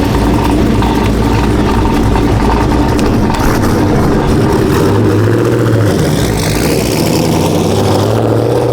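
A car engine tuned to run on E85, running loudly with a tinny exhaust that sounds like a can; its pitch steps up about five seconds in and again near the end.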